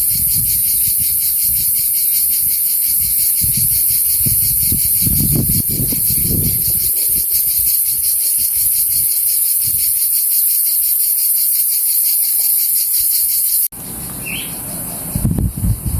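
Loud, steady chorus of crickets trilling in fast, even pulses, with a low rumble on the microphone underneath. The chorus cuts off abruptly a little over three-quarters of the way through, leaving quieter outdoor noise with a single short chirp.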